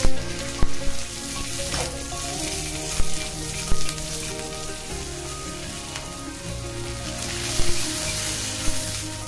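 Onions and green chillies sizzling in hot oil on a tawa, with a flat metal spatula scraping and knocking against the pan several times as they are turned.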